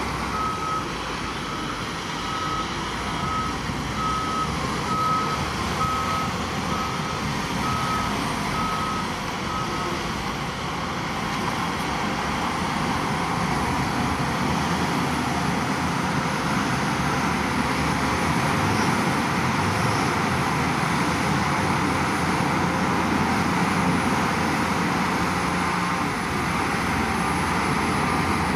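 Reversing alarm on a heavy machine beeping at an even pace over the steady running of a diesel engine; the beeping stops about ten seconds in while the engine keeps running.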